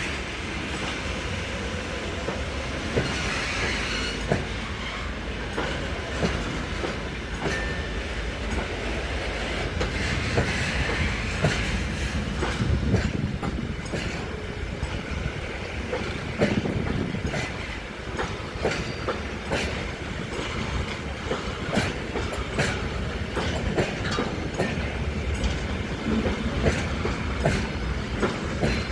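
Freight train wagons rolling past, their wheels clattering over the rail joints: a steady rumble broken by many sharp clacks and knocks.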